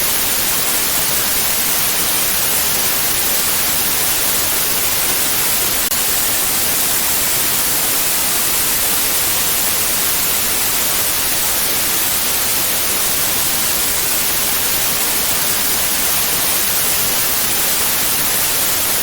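Steady white noise: a constant, even hiss with no changes, brightest in the high frequencies.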